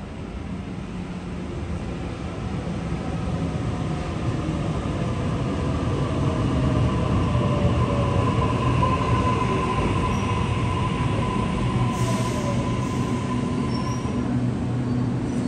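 Electric suburban train arriving at an underground station platform, growing louder as it comes in and slowing. Whining tones fall in pitch as it brakes, and there is a short hiss about twelve seconds in.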